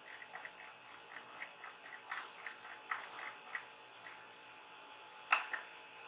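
Rotary control knob on a 3D printer's control panel being turned through its detents: a run of faint small clicks, then one sharper, louder click near the end.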